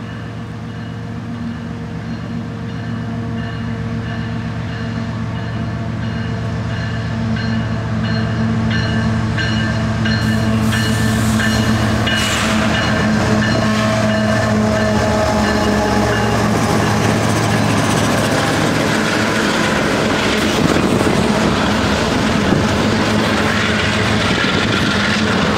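CP Rail train passing: the diesel locomotive engines drone and grow steadily louder over the first ten seconds, then the rolling cars' wheels rumble and clack along the rails.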